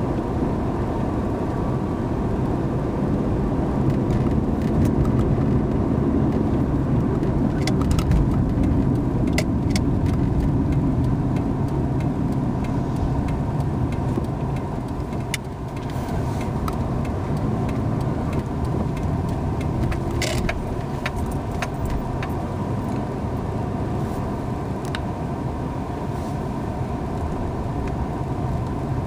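Car driving, heard from inside through a dash cam's microphone: steady road and engine rumble, with a few sharp clicks or knocks scattered through it.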